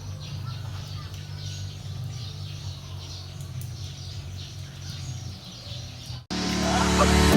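Birds chirping over a steady low rumble. About six seconds in, this cuts off abruptly and louder music begins.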